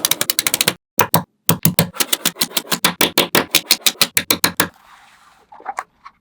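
Small magnetic balls clicking together in a rapid, even run of sharp snaps, about eight to ten a second, with a brief pause about a second in. The run stops most of the way through, leaving a faint hiss and a few softer clicks.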